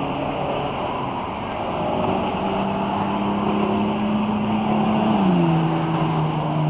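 A vehicle passing close by over steady rumbling road or rail noise; its pitched engine or motor tone grows louder, then drops in pitch about five seconds in as it goes past.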